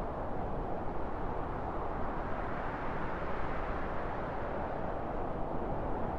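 Steady wind: a low, dense rushing that swells a little brighter in the middle.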